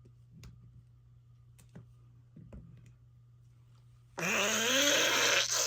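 A few faint taps and clicks. Then, about four seconds in, a loud, drawn-out fart sound with a wavering pitch, which tails off.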